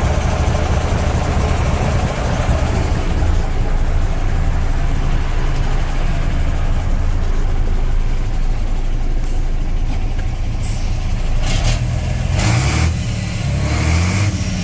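Heavy 6x4 truck's diesel engine running steadily, its note changing in the last few seconds, with a couple of short bursts of noise near the end.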